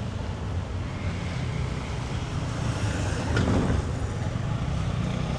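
Street traffic rumbling steadily, with a vehicle passing close by about three seconds in.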